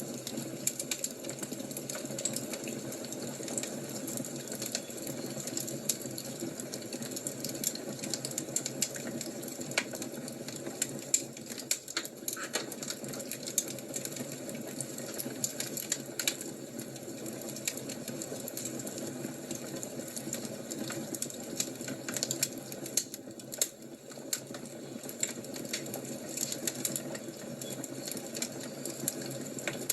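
Wood fire crackling, a dense run of small irregular pops and snaps over a low steady rumble, with a few louder snaps in the middle.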